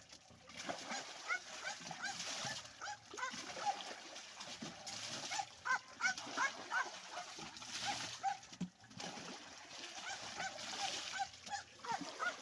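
Water being poured into a tubewell pipe to prime the pump, splashing and gurgling, with short breaks between pours.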